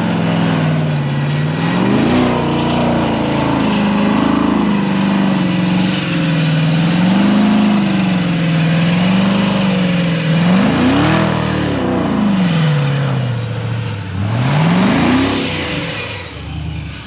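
A vehicle engine being revved up and down over and over, its pitch wavering, with two bigger climbs and drops near the end.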